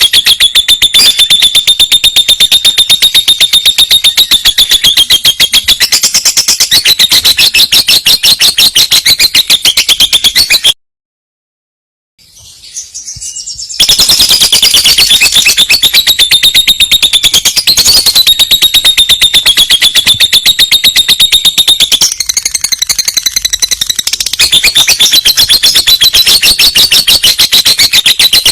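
Lovebird's long trill (ngekek): a very fast, unbroken run of shrill chirps. Near the middle it stops dead for about a second, then fades back in and continues.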